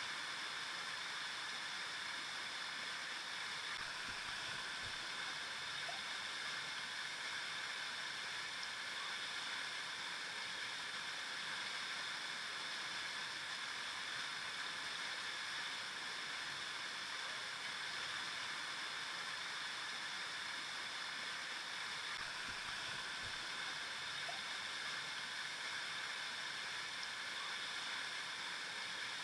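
River water flowing, a steady rushing noise with no let-up.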